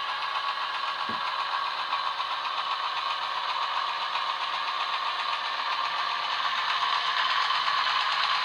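Model diesel locomotive running along the layout's track with a steady mechanical rattle, a brief knock about a second in, getting a little louder near the end.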